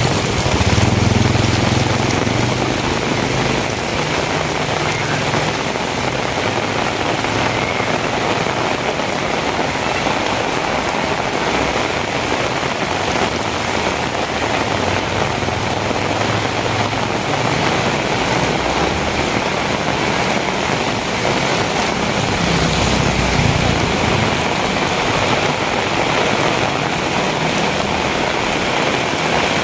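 Heavy rain falling steadily on hard surfaces. A low rumble swells in the first few seconds and again a little past twenty seconds.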